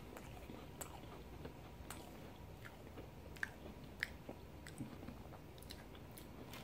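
Faint chewing of a mouthful of Oreo cookie, with a few scattered short crunches and clicks.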